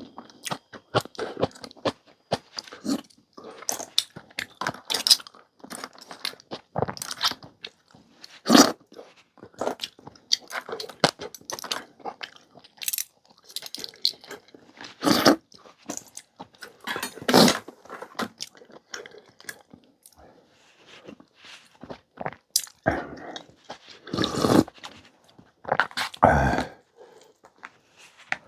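Close-miked eating: irregular chewing and crunching bites, with a few louder moments scattered through.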